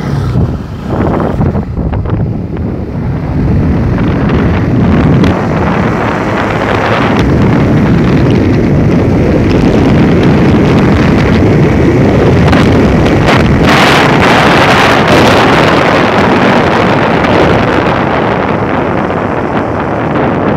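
Wind buffeting the microphone on a moving motorcycle, a loud, steady rush that builds over the first few seconds as the bike picks up speed.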